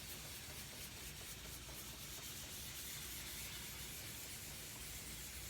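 600-grit wet/dry sandpaper being rubbed over primed aircraft fabric in wet sanding: a steady, even scratchy rubbing.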